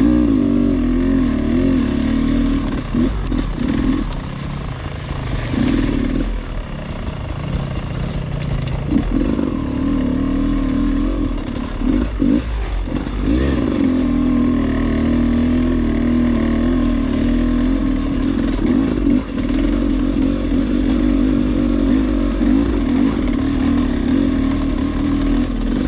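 Dirt bike engine running on a trail ride, its pitch wavering up and down with the throttle, with several brief on-off throttle changes in the first half before it settles into a steadier pull.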